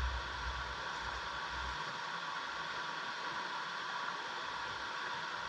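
Steady rushing of a mountain valley stream. There is a low rumble under it for the first couple of seconds.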